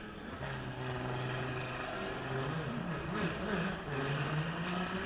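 Ferrari race car engine running, holding a steady note and then wavering up and down in pitch, like light blips of the throttle, before settling a little higher.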